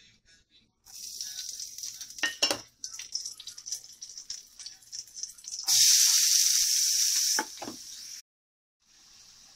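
Oil sizzling in a steel pan as green chilli pieces are added, with a couple of sharp clinks, then a much louder burst of sizzling for about two seconds as chopped onion goes in. It then drops back, cuts off, and a fainter steady hiss follows near the end.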